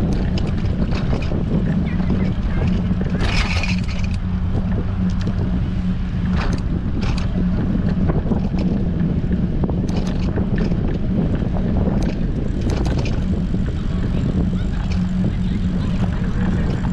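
Strong wind buffeting a bicycle-mounted action camera's microphone while riding: a steady, loud low rumble, with scattered light clicks and a brief higher hiss about three seconds in.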